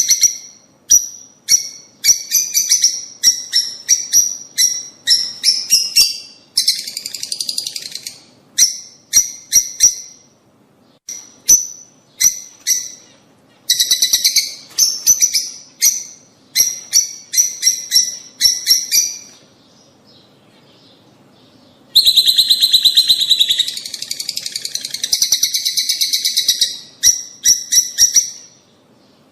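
Lovebirds calling: quick runs of sharp, high chirps, broken by stretches of dense chattering, with a short lull about twenty seconds in.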